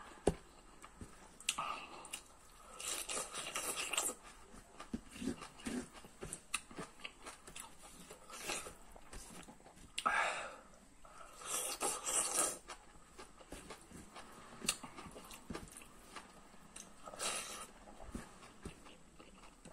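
Close-miked eating by hand of chicken curry with rice and leafy greens: wet chewing, lip smacks and soft crunches. A few longer hisses come through now and then.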